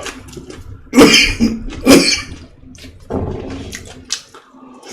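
Two loud, sharp bursts of breath from a person's mouth close to the microphone, about a second apart, like coughs while eating, followed by a softer one.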